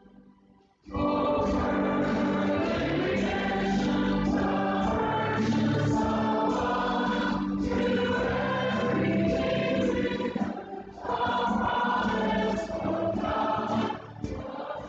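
Choir singing a gospel worship song with instrumental accompaniment, coming in about a second in after a moment of near quiet.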